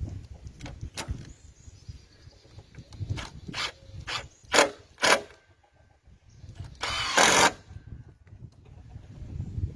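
Workshop handwork: a run of sharp knocks and clicks, several close together, then a short burst of hissing noise lasting under a second.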